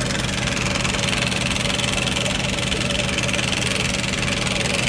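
A motor running steadily with an even low hum and a steady hiss above it.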